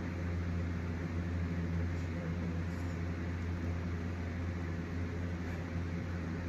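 A steady low mechanical hum with an even hiss over it, unchanging throughout, like a fan or motor running in a small room.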